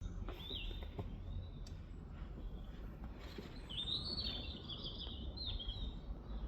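Small wild birds singing high chirping, warbling phrases, a short one near the start and a longer run from about halfway through, over a steady low rumble.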